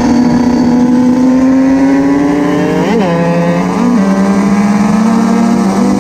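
Two small two-stroke motorcycle engines running hard at high revs, one climbing slowly in pitch while the other's note dips and recovers briefly about three seconds in, again a second later, and near the end.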